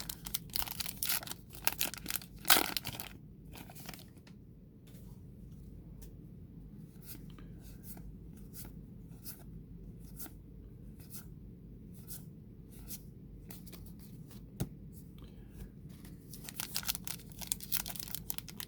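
Trading-card pack handling: a burst of wrapper tearing and crinkling in the first few seconds, then soft flicks roughly once a second as cards are slid off the stack one by one, with more rustling near the end.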